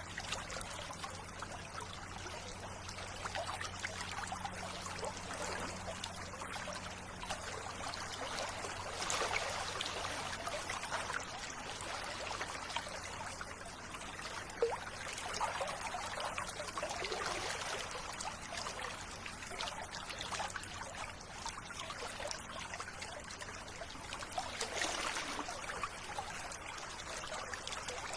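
River water flowing and trickling in a steady rush that swells and eases every few seconds.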